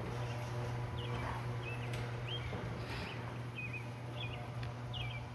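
1970s Sears garage door opener running the door with a steady low hum. Birds chirp repeatedly over it.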